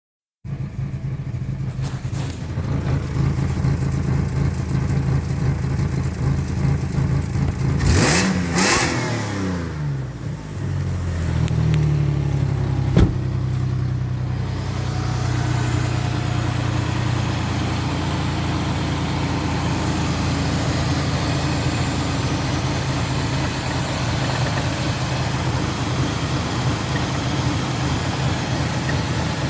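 Nissan Frontier engine idling roughly. It is revved briefly about eight seconds in and settles back to idle. There is a single sharp click about halfway through. The rough idle shows only at low rpm, and the engine runs smoothly when given gas.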